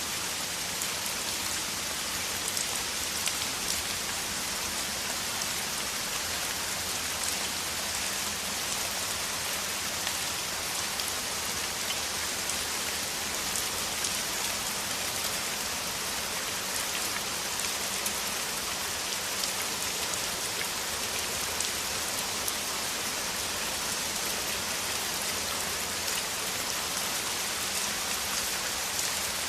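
Steady heavy rain falling, an even hiss of many drops hitting surfaces, with scattered louder drop ticks.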